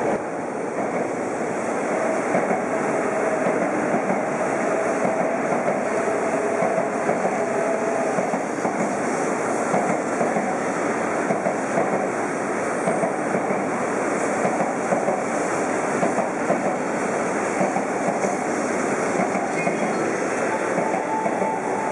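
Tokaido Shinkansen 300 series train running past, a steady, loud noise of wheels on rails and train running gear that holds throughout, with a faint whine for a few seconds near the start.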